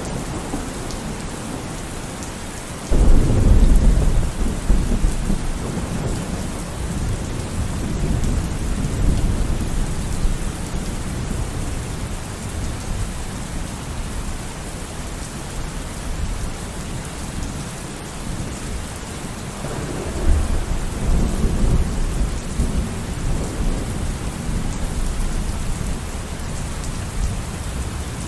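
Steady rain on a surface with thunder: a sharp crack that breaks into a long low rolling rumble about three seconds in, and a second rumble of thunder about two-thirds of the way through.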